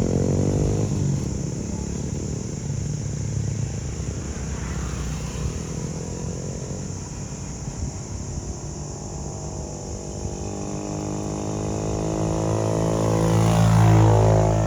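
A motor vehicle's engine passing by twice. The first pass is fading out at the start. The second grows louder and peaks near the end, its pitch dropping as it goes past.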